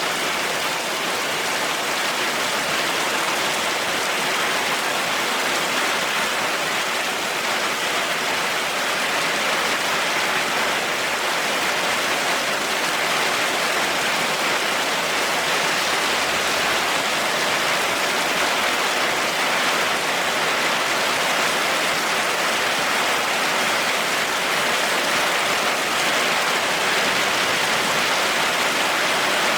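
Heavy rain falling steadily, an even hiss that doesn't let up, with no thunder.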